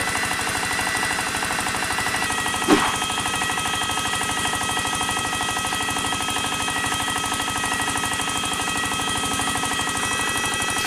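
Small electric motor of a homemade miniature machine running steadily with a very fast rattle and a steady high whine. A single brief sharp sound stands out about three seconds in.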